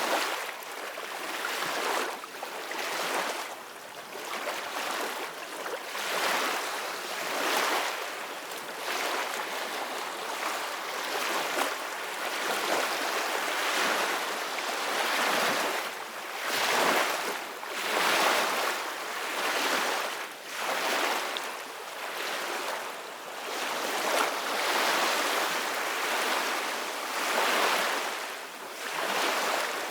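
Sea waves washing and breaking, a hissing rush that swells and falls away in irregular surges every few seconds.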